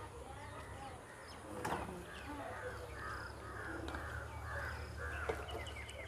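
A bird giving a run of short repeated calls, about two or three a second, starting about two seconds in, with faint chirps of other birds around it.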